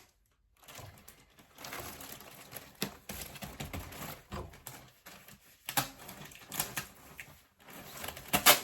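Plastic courier bag being handled, crinkling and rustling, with several sharper crackles.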